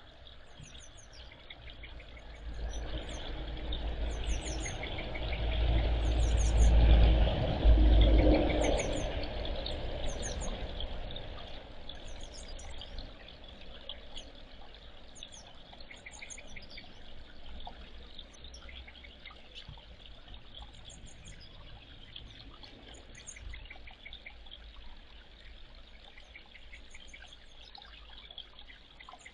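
Small birds chirping in short, high, repeated bursts every second or two. A rushing noise with a deep rumble builds from about two seconds in, is loudest around seven to eight seconds, and fades out by about twelve seconds.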